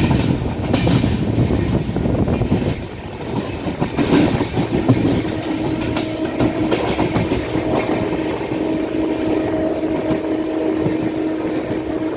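Passenger express train running at speed, heard from a coach's open doorway: a loud, steady rumble of wheels on rails with irregular clattering over the track. From about five seconds in, a steady tone sounds above it.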